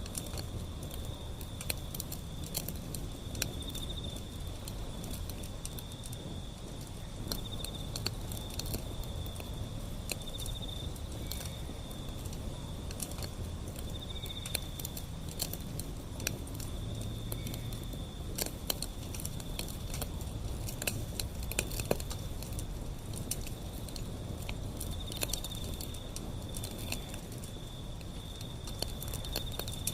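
Wood fire burning: a low steady rumble of flames with sharp crackles and pops scattered throughout, thickest around the middle. An insect trills steadily and high-pitched in the background.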